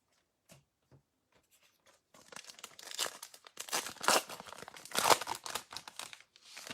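A trading card pack's wrapper being torn open and crinkled by hand: a few faint ticks, then about four seconds of dense tearing and crinkling that ends just before the last second.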